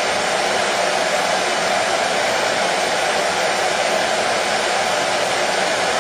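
Hair dryer running steadily: an even, unbroken whooshing hiss of blown air, fullest in the low-middle range, with no change in pitch or loudness.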